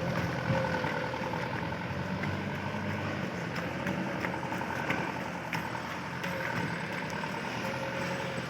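Heavily loaded truck's engine running steadily at low revs, with occasional short knocks and rattles.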